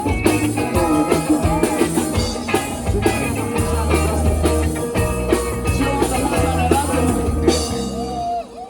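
Live rock band playing: a drum kit keeping a regular beat under sustained bass notes and other instruments. The band drops out briefly near the end.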